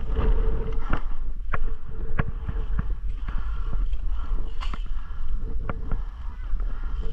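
Wind buffeting the microphone with a heavy, steady rumble, with scattered sharp clicks and knocks at irregular intervals.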